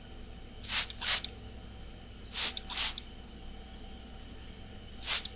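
Spray bottle spritzing water in short hissing bursts, in quick pairs: two about a second in, two more around two and a half seconds, and one near the end. Underneath is the steady hum of an air conditioner.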